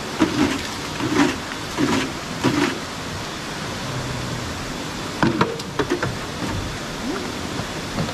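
Steady rushing water of a waterfall, with a few dull thumps in the first three seconds and a short run of clicks about five seconds in.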